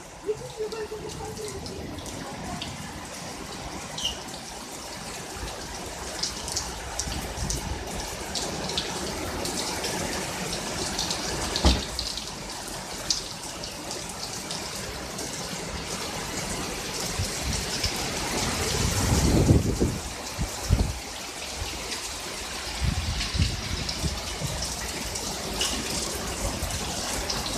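Heavy summer downpour: steady rain with scattered sharp drops and knocks. A low rumble swells briefly about two-thirds of the way in.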